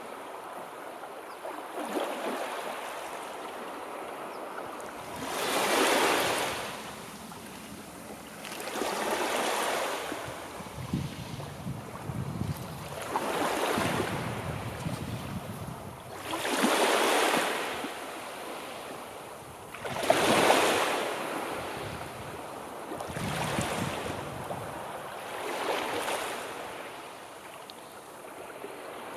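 Sea waves washing in one after another, a surge of rushing water every three to four seconds with a softer hiss between.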